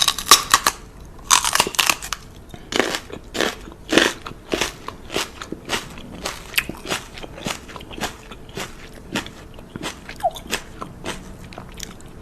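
Crunchy chewing: a run of loud, sharp crunches, bunched together at first, then settling to about two a second and growing fainter toward the end.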